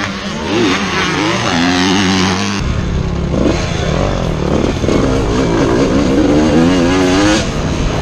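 Motocross dirt bikes running on the track, the engine pitch rising and falling as they accelerate and back off. A deeper, louder engine sound comes in just under three seconds in.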